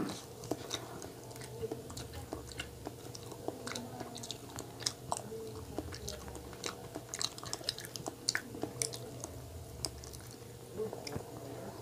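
Close-up chewing of a soft chocolate-coated donut with marshmallow filling: wet, irregular mouth clicks and smacks.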